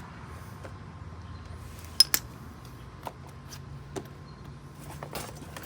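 Metal tools and fittings clinking and knocking during hand work on an RV water heater: a sharp double clink about two seconds in, then single lighter knocks a second or so apart.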